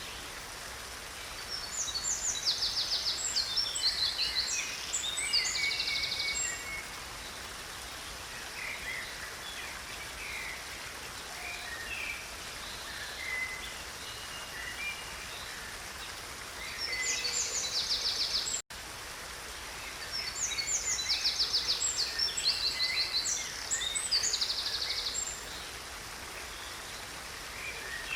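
A stream's steady rush of water, with songbirds singing loud bursts of fast, high trills twice, the same phrase each time. The sound cuts out for an instant about two-thirds of the way through.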